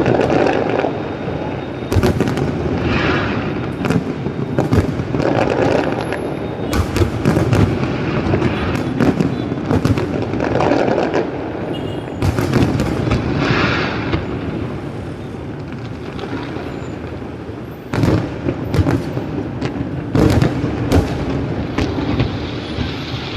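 Fireworks going off in quick succession: repeated sharp bangs and booms over a continuous rumble, easing a little past the middle and then picking up again.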